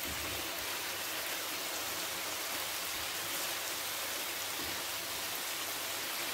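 Chicken and tomato masala sizzling steadily in a nonstick pan as the tomato juices cook off, stirred with a silicone spatula.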